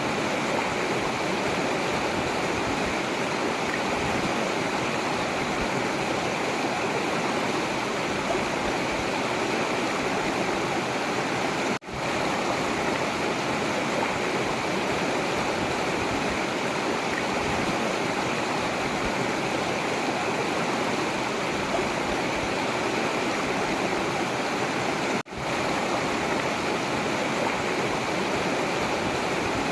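Forest river flowing, a steady rush of water that dips out for an instant twice.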